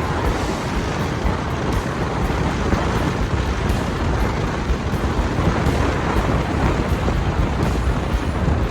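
Steady road noise from car tyres on wet, slushy pavement: a constant hiss over a deep rumble.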